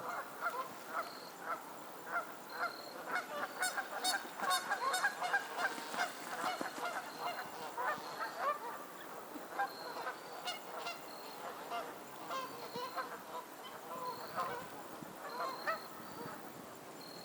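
A flock of geese honking, many short calls overlapping one another, thickest a few seconds in and thinning out later, with short high peeps repeating in the background.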